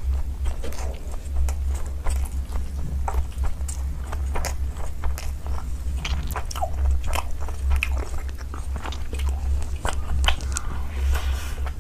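Close-miked eating sounds: a person chewing and biting food, with many irregular crisp mouth clicks and crunches, over a steady low hum.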